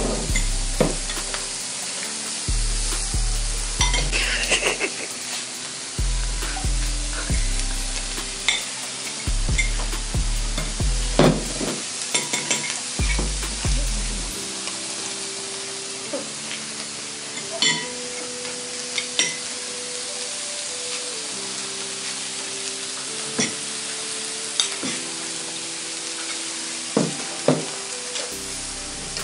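Food sizzling in a frying pan, with the clicks and scrapes of a utensil stirring it now and then, over background music whose bass line drops out about halfway.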